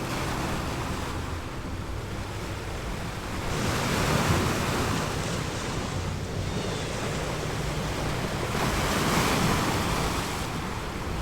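Ocean surf rushing steadily, swelling louder twice as waves wash in.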